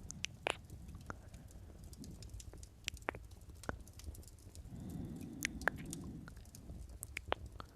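Close-miked ASMR kissing: soft lip smacks and wet mouth clicks scattered irregularly, with a low swell of sound for about a second midway.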